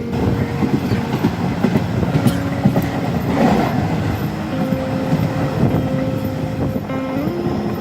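Passenger train running along the track: a steady rumble with wheels clattering over the rails, and a few held tones that shift in pitch, one stepping up near the end.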